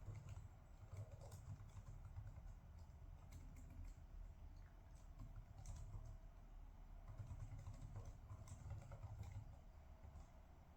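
Faint typing on a computer keyboard: irregular key clicks, thinning out near the end, over a low steady hum.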